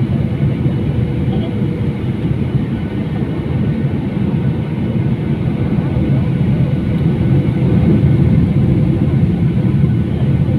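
Steady cabin noise of an airliner in flight: the engines and rushing air make an even, low-pitched roar with a faint steady hum above it.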